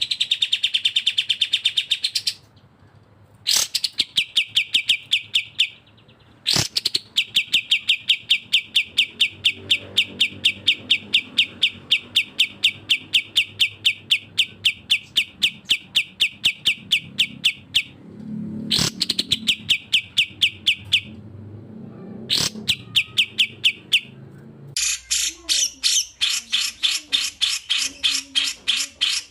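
Birdsong recorded for song-training, from a cucak jenggot (grey-cheeked bulbul) and a kapas tembak. There are long, fast, even trills of sharp repeated notes with short breaks between them. Near the end a different, higher, brighter trill takes over.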